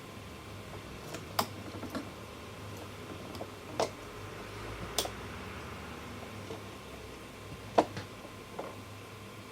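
Scattered sharp clicks and taps at irregular intervals, four of them louder, over a faint steady hum.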